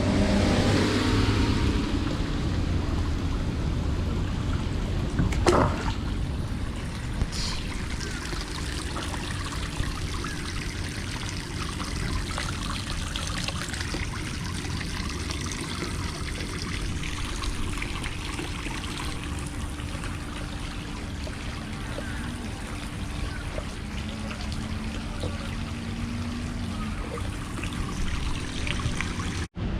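Water trickling and splashing steadily, with a sharp knock about five and a half seconds in.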